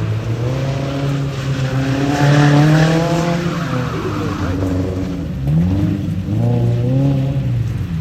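Car engine revving up and down while a car is swung around in the snow, the pitch climbing twice and falling away between and near the end.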